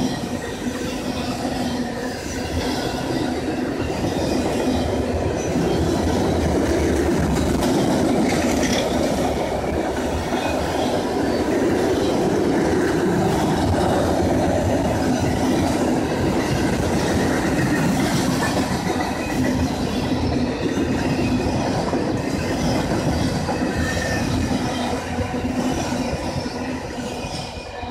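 Empty autorack freight cars rolling past: a steady rumble and clatter of steel wheels on the rails, dying away near the end as the last cars go by.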